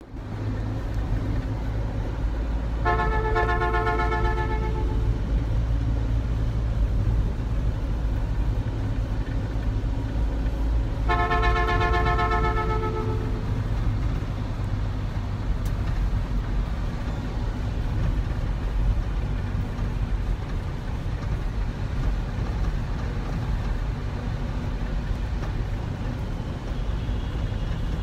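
Steady low rumble of a vehicle travelling on a road, with a horn sounding two long blasts of about two seconds each, one a few seconds in and another about eleven seconds in.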